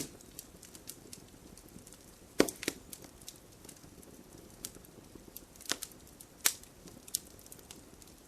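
Wood campfire crackling: a low steady hiss with scattered sharp pops and snaps, three louder pops standing out, the first about two and a half seconds in and two more near six seconds.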